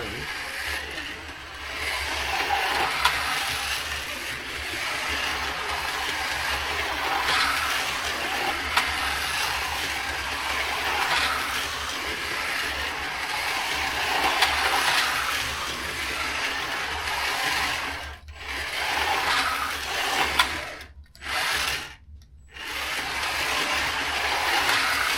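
Carrera GO!!! slot cars running on a plastic track: their small electric motors and gears whir continuously, swelling and fading every few seconds as the cars lap. The sound drops out briefly three times near the end, as the cars slow or stop.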